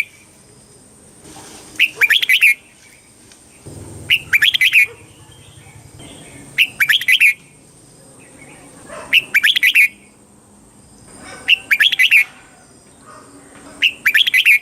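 Red-whiskered bulbul singing short, loud, warbled phrases, repeated about every two and a half seconds.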